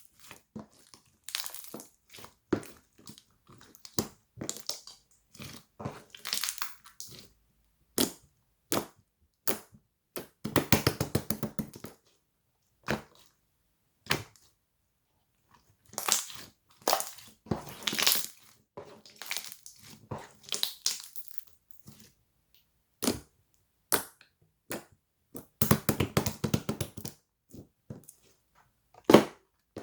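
Irregular crinkling and crunching handling noises with sharp clicks, in short clusters and a few longer spells of rustling.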